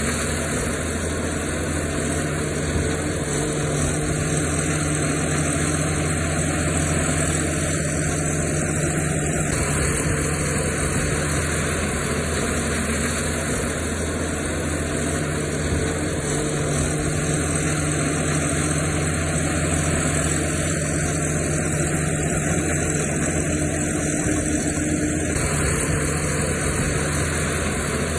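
Heavy earthmoving machinery's diesel engine running steadily, a low engine hum at a nearly constant pitch and level.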